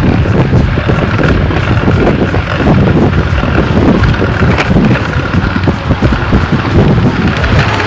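Wind buffeting the microphone of a mountain bike rider's camera while riding a rough trail, with a dense low rumble and irregular knocks and rattles from the bike over the ground.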